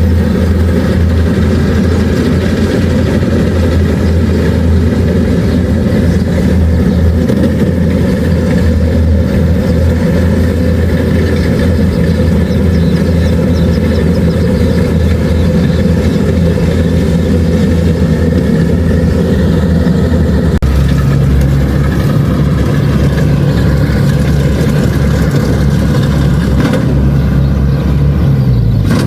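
Kubota DC-70 Plus rice combine harvester's diesel engine running steadily with a loud low drone. About two-thirds of the way through its note shifts, and just before the end it drops.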